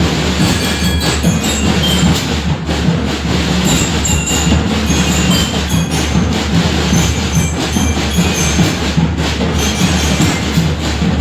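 Drum and lyre band playing: massed drums with bell lyres. The sound is loud, dense and steady.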